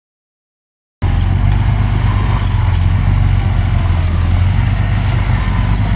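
Small bulldozer's diesel engine running steadily under load, with brief high metallic squeaks and clinks; the sound cuts in about a second in.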